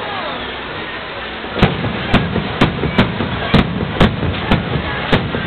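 Aerial firework shells going off. After a stretch of steady background noise, about a second and a half in, a rapid series of sharp bangs starts at roughly two a second.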